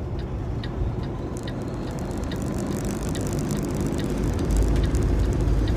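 Heavy truck's diesel engine and road noise heard from inside the cab of a 2015 Kenworth T680, with the turn signal ticking about twice a second through the first couple of seconds. About four and a half seconds in, the engine drone gets louder as the truck pulls harder.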